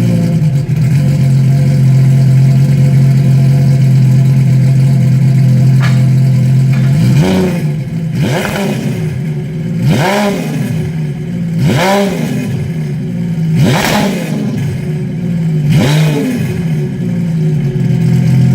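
Sea-Doo GTX Limited iS 260's supercharged three-cylinder engine, fitted with a RIVA aftermarket exhaust kit, idling steadily, then revved in six short throttle blips about two seconds apart, each rising and falling back to idle.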